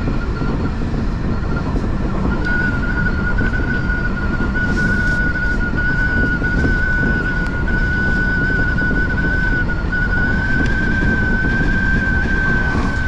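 Odakyu Line commuter train running along the track: a steady low rumble of wheels on rail, joined about two seconds in by a steady high-pitched whine that holds for about ten seconds and stops at the end.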